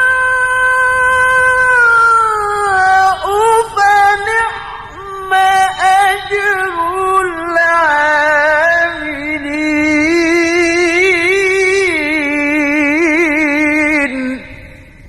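Quran recitation by a qari in a high, melodic voice: a long ornamented phrase with pitch turns, then a held, wavering passage that cuts off about 14 seconds in.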